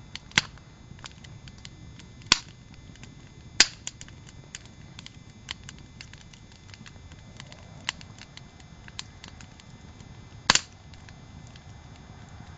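Wood campfire crackling: irregular sharp snaps and pops, a few loud ones among many small ticks, over a low steady burning hiss.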